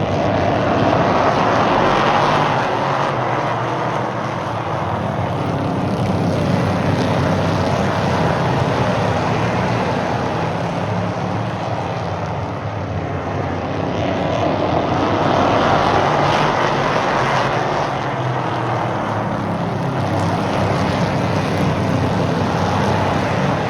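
Stock race cars running laps on an oval track, with engines at racing speed. The sound swells twice as the pack comes past, roughly a lap apart.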